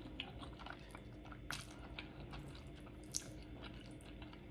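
Faint, close-miked chewing of ramen noodles: soft wet mouth sounds with scattered small clicks, two of them sharper.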